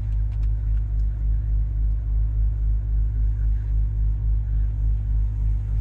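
2008 Audi RS4's 4.2-litre V8 with a JHM exhaust idling, a steady low rumble with a slight even throb about twice a second, heard from inside the cabin.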